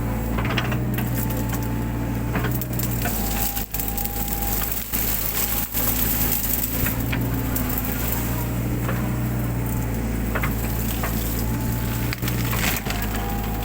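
Mini excavator's engine running steadily under load, with a whine that steps up and down in pitch as the hydraulics work, over repeated cracking and snapping of brush and branches being crushed.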